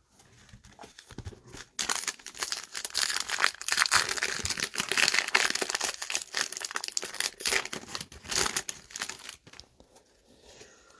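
Trading-card pack wrapper being torn open and crinkled by hand, a dense crackling that starts about two seconds in and dies away near the end.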